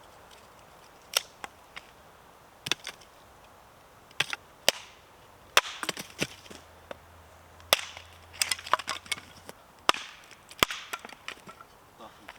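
Wood being chopped: a long series of sharp strikes at irregular intervals, some in quick pairs and clusters.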